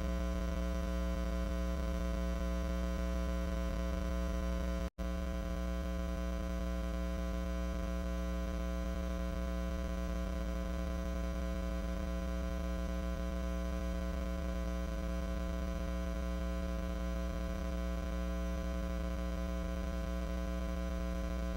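Steady electrical mains hum, a buzzy drone with a long stack of overtones. It drops out for an instant about five seconds in.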